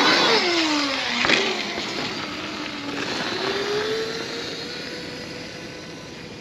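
OSET TXP 24 electric trials bike's motor whining and changing pitch with the throttle over tyre and wind noise. Two sharp knocks come near the start and just over a second in. The whine then rises and holds steady, fading as the bike moves away.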